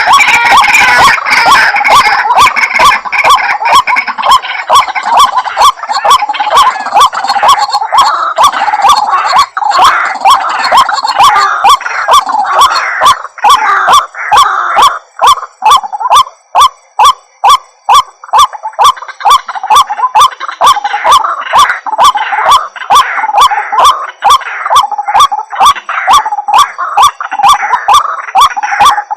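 White-breasted waterhen calling: loud, harsh croaking notes repeated over and over in a fast, unbroken series, as in a lure recording used to call the birds in.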